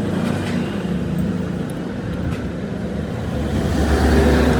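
A motor vehicle engine running steadily, getting louder near the end.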